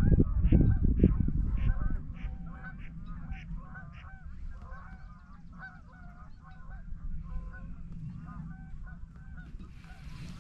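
A flock of geese honking, many overlapping short calls, with a loud low rumble in the first two seconds.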